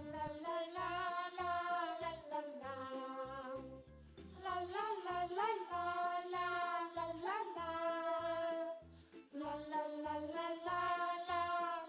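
Soft children's background music: a pitched melody over a light, regular beat, with two short breaks.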